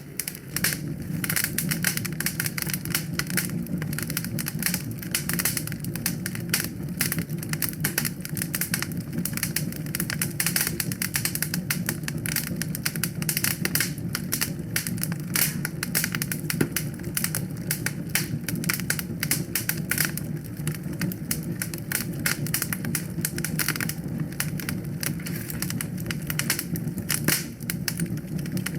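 Wood fire crackling with dense, irregular sharp clicks, over a steady low rumble of the flames.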